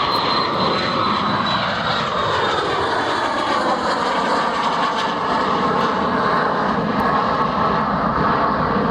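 Twin Honeywell HTF7350 turbofan engines of a Bombardier Challenger 350 business jet at takeoff power: a loud, steady jet roar, with its whine falling in pitch over the first few seconds.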